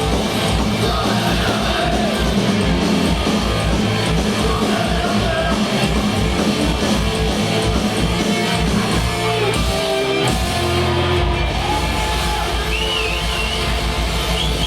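Punk rock band playing live: distorted electric guitars, bass and drums, loud and dense. About ten seconds in the drum pattern drops out briefly, and near the end a high wavering squeal rises over the band.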